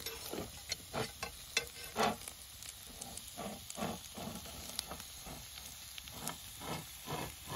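Burger, potatoes and onions sizzling as they cook, with a utensil scraping and knocking among the food in short, irregular strokes.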